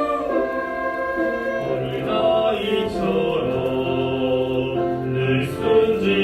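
Orchestra and choir performing a slow worship song, with held chords that move step by step.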